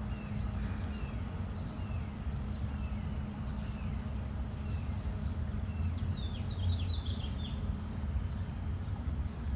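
A bird repeating a short falling call about once a second, with a brief flurry of higher, quicker calls about six seconds in, over a steady low rumble.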